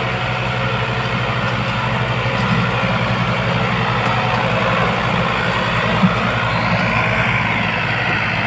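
Farmtrac 45 tractor's diesel engine running steadily at low revs, with one short knock about six seconds in.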